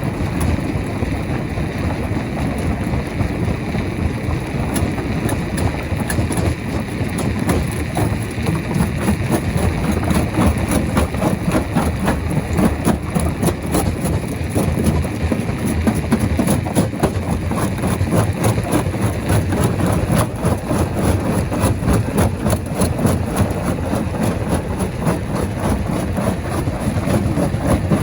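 Heavy rock crusher machinery running with a steady engine drone and a dense, rapid clatter of knocks, which gets louder about a third of the way in.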